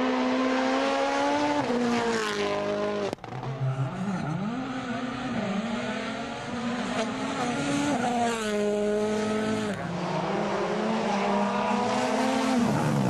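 WRC rally car engines at full race pace across several edited shots. The engine pitch climbs through the revs and drops sharply on gear changes and lifts. The sound cuts abruptly between shots about three seconds in and again near the ten-second mark.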